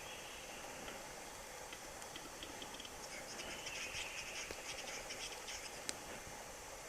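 Western capercaillie displaying on its lek, faint: a scatter of dry clicks and short scraping phrases, busiest a few seconds in.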